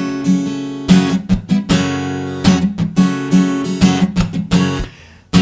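Acoustic guitar strummed in a rhythmic strumming pattern, strokes across the strings with the chord ringing between them. The chord dies away shortly before a last strong strum near the end.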